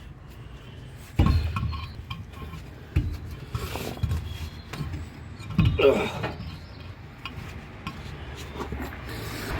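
Metal clanks, knocks and clinks as a steel spare wheel and its wheel nuts are handled and fitted onto the van's hub, the loudest knocks about a second in and near six seconds.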